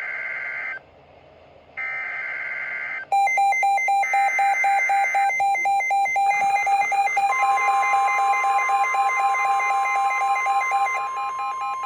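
NOAA Weather Radio emergency alert: three short bursts of the screechy digital data header, then from about three seconds in several weather radios go off with pulsing alarm beeps, and about seven seconds in the steady long warning tone joins them. It is the start of a snow squall warning for the listener's own area.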